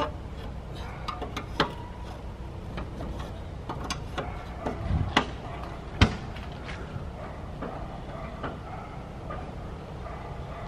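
Scattered metal clicks and knocks from work on a pop-up camper's jacks and stabilizer feet while it is being leveled, over a low steady rumble. One sharp knock stands out about six seconds in.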